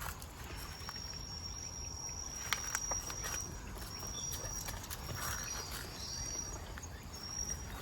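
An insect trilling on one steady high note in several separate stretches, the first and longest about three seconds, with scattered small clicks and a low rumble of wind or outdoor noise underneath.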